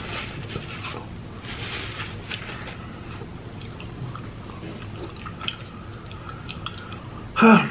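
Close-miked mouth sounds of a person chewing and smacking, with soft paper-napkin rustling early on. A short, loud voice sound comes near the end.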